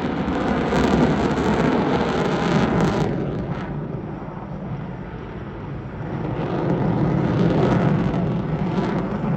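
Jet noise from the F-22 Raptor's twin Pratt & Whitney F119 turbofan engines at high power: a loud, deep rushing rumble. It eases somewhat about halfway through, then builds again.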